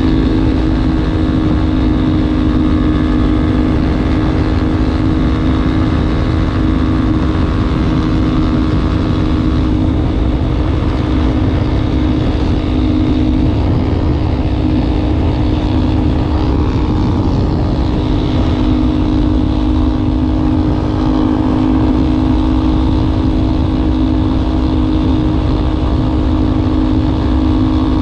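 Yamaha Ténéré 250's single-cylinder engine running at a steady speed through a Wacs aftermarket slip-on muffler, a constant low exhaust note with no revving.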